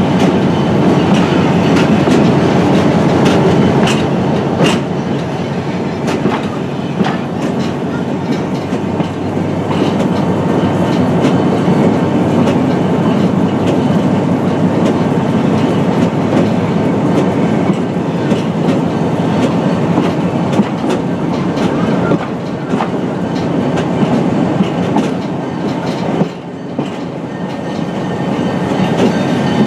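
Oregon Pacific shortline excursion train rolling along the track, heard from aboard: a steady rumble and rattle with occasional sharp clicks of the wheels over the rails. It drops briefly in level near the end.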